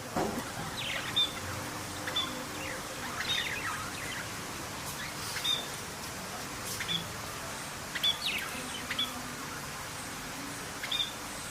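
Red-rumped cacique (guaxe) calling: short, sharp down-slurred notes alternating with brief high notes, repeated about once a second, over a steady background hiss.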